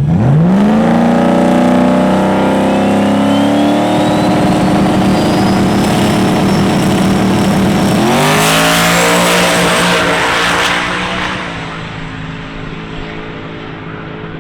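A drag car's engine revving up hard at the launch and pulling down the strip, with a high whine that climbs steadily in pitch. About eight seconds in, the engine note sweeps up again, then the sound drops away near the end as the car gets farther off.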